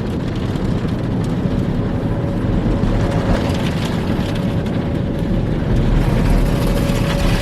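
Car wash running on a pickup truck: a steady rush of water spray and machinery with a thin, steady whine, getting slightly louder near the end.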